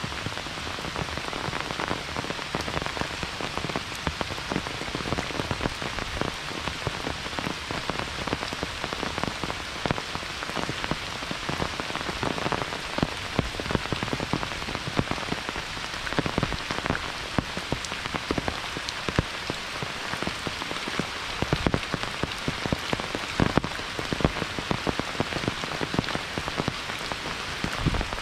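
Steady monsoon rain falling, with a dense patter of individual drops striking close by.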